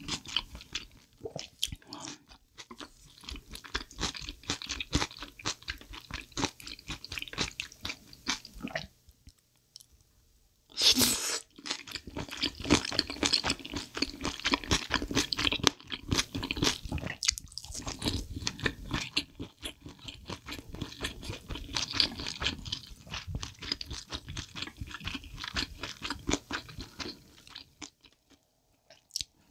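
Close-miked wet chewing and crunching of spicy soup-style chicken feet and glass noodles, a steady run of small crackles and squelches, with a short lull and then one loud sound about eleven seconds in.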